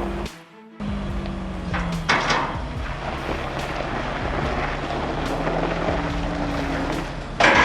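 A heavy vehicle's diesel engine runs steadily under load, cut off by a brief drop-out about a third of a second in. A short louder noisy surge comes about two seconds in and another near the end.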